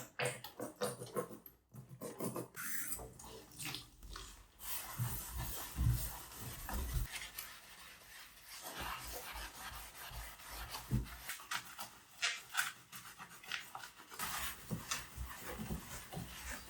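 Irregular rubbing strokes of a surface being scrubbed during cleaning, with a few soft low thuds in the middle.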